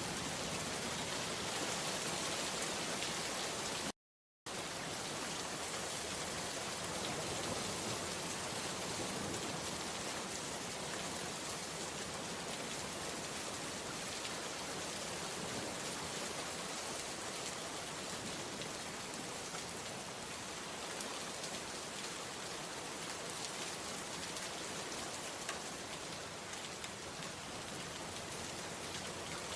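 Steady rain falling, a dense even hiss with faint scattered drop ticks. The sound cuts out completely for less than half a second about four seconds in.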